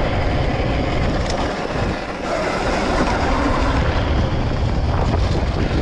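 A dirt bike riding a lap on a dirt track, heard from an on-board action camera: wind buffeting the microphone over the tyre and drivetrain noise, with a faint pitch that shifts as speed changes. The sound eases for a moment about two seconds in, then picks up again.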